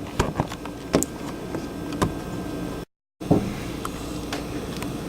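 Strong storm wind rushing over the microphone, with a few sharp clicks and knocks, and the sound cutting out completely for a moment about three seconds in.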